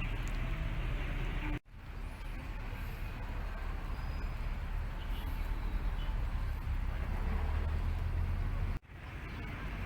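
Steady low rumble of outdoor background noise, broken off sharply twice for a moment.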